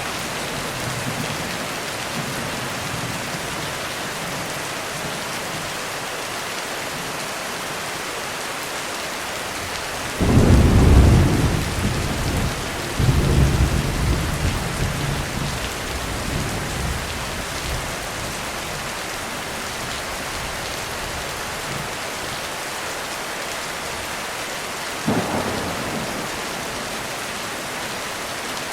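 Heavy rain falling steadily on a roof. About ten seconds in, a loud thunderclap breaks in with a deep rumble that surges again a few seconds later before fading. A shorter, fainter rumble of thunder comes near the end.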